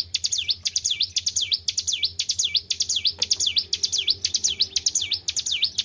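Ciblek gunung, a small prinia kept as a songbird, singing hard: a fast, unbroken series of loud swooping notes that dip in pitch and rise again, about three a second.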